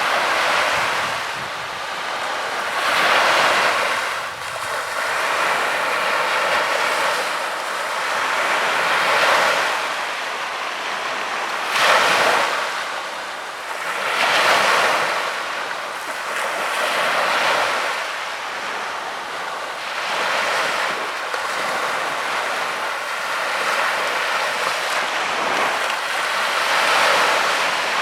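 Sea waves washing onto a beach. The surf swells and falls back every two to three seconds, with one sharper break about twelve seconds in.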